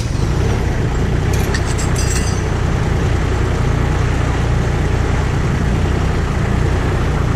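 An engine idling steadily, with a few light metallic clinks about a second and a half in.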